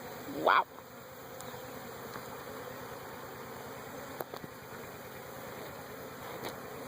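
Honeybees buzzing around an open hive: a steady, continuous hum from many bees in flight.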